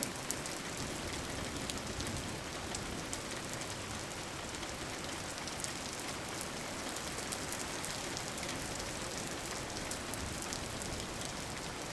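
Steady rain falling on a surface, an even hiss with scattered small drop ticks, used as an ambient background track.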